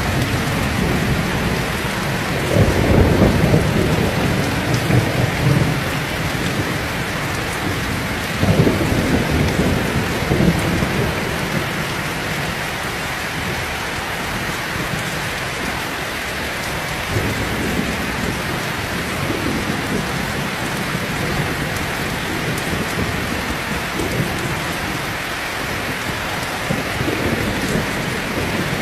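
Heavy rain pouring steadily, with thunder rolling low underneath, loudest about three seconds in and again around nine seconds in, with fainter rumbles later.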